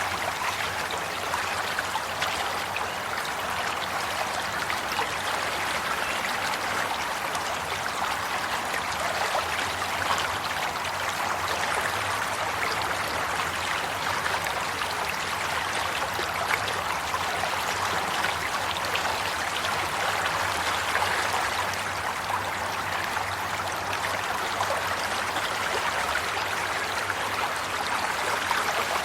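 Steady flowing water, a stream running and trickling with an even rushing sound.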